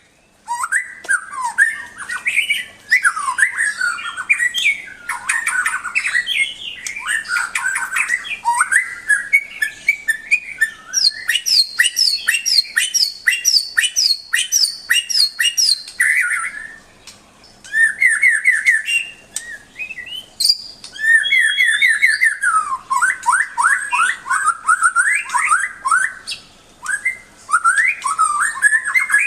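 White-rumped shama (murai batu) singing a long, varied song of fast whistled phrases, sweeping notes and rapid repeated trills, with short pauses about 17 and 20 seconds in.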